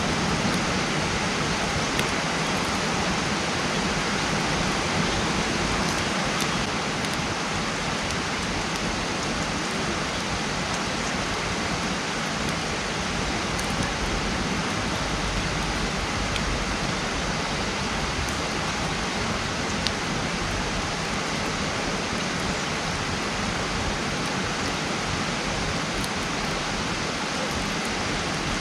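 Wood campfire burning: a steady crackling hiss with a few sharp pops now and then.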